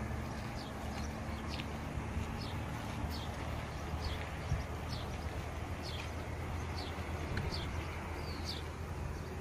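A small bird chirping over and over: short, high chirps that fall in pitch, about one a second, over a steady low rumble.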